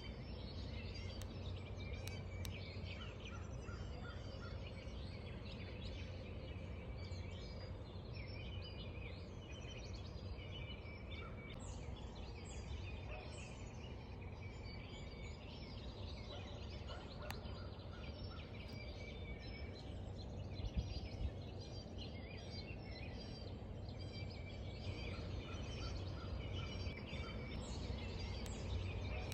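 Several small birds chirping and warbling in quick, overlapping phrases, over a steady low rumble. Two brief knocks come about two-thirds of the way through.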